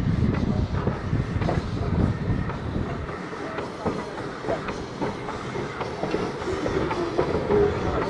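Train running along the rails, with a steady rumble and irregular clicks and knocks from the wheels over the rail joints.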